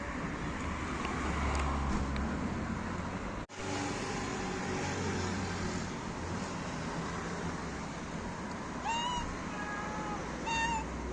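A cat meowing two or three times near the end, short calls that bend in pitch, over a steady low rumble.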